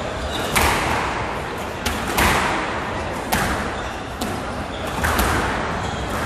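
Squash rally: the ball cracking off rackets and the court walls about once a second, each hit echoing in the court.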